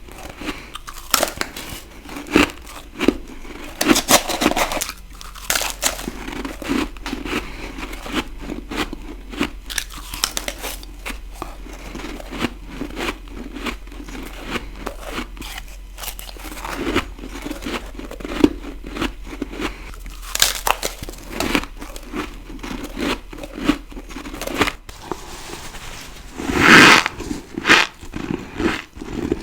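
Close-miked bites and chewing of ice: a steady run of crisp, irregular crunches, with one louder, longer crunch about 27 seconds in.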